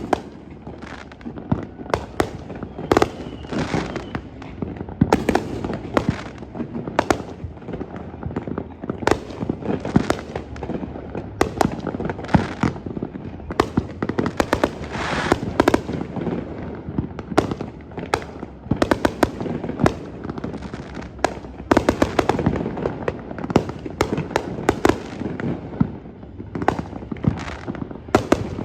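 Fireworks going off in a steady barrage: many irregular sharp bangs over constant crackling.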